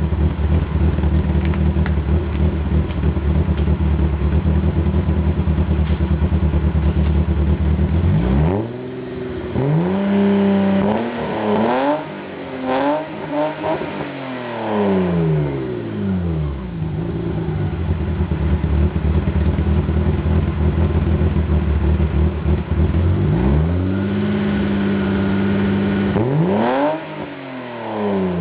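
BMW E30 325i's M20 2.5-litre straight-six, heard from behind the car through dual Cherry Bomb mufflers and echo tips. It idles steadily, is revved in a string of quick blips from about eight seconds in, and settles back to idle. Near the end it is revved and held high again, then blipped and let fall.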